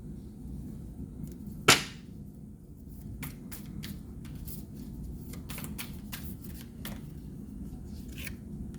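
Tarot cards being handled and shuffled: a string of light card clicks and flicks, with one sharp snap about two seconds in.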